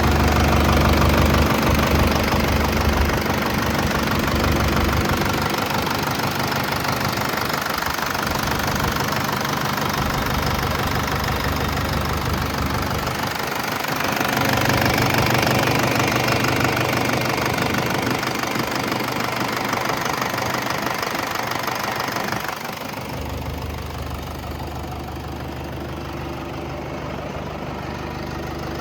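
Fendt Farmer 409 Vario tractor's diesel engine running: louder through the middle, then settling to a quieter, steady idle about three quarters of the way through.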